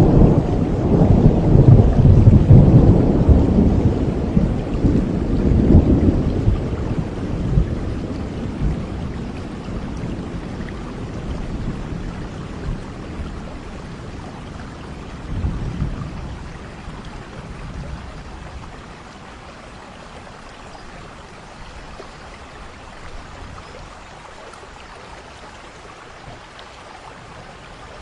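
Thunder rumbling over steady rain: a long low roll, loudest in the first few seconds and slowly dying away, a smaller roll about halfway through, then only the even hiss of the rain.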